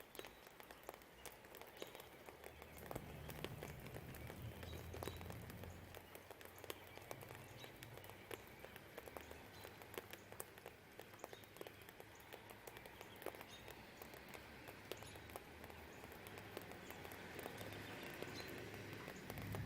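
Steady rain, faint overall, dripping and pattering in many small taps. A low distant rumble swells about three seconds in, fades, then builds again near the end. A few faint bird chirps sound through it.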